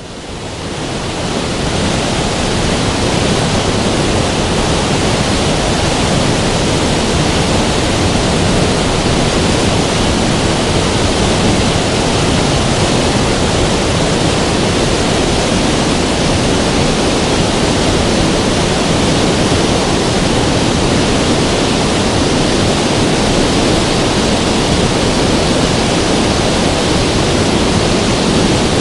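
River water rushing in a steady, dense wash of noise that fades in over the first couple of seconds and then holds even.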